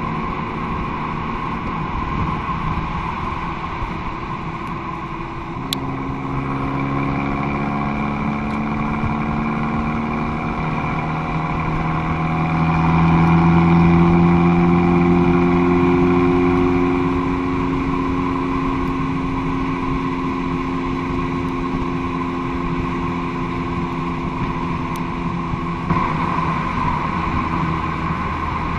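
Abarth 595 Competizione's turbocharged 1.4-litre four-cylinder engine running through an aftermarket Akrapovic exhaust. The engine note climbs slowly in pitch from about six seconds in, is loudest for a few seconds past the middle, then eases back to a steady drone.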